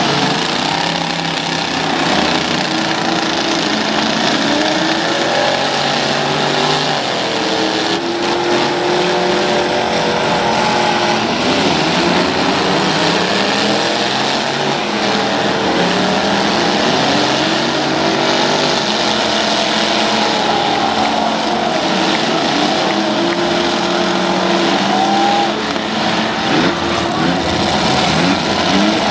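Engines of several full-size demolition derby trucks and vans revving hard and dropping back, overlapping one another, each rising and falling in pitch over and over.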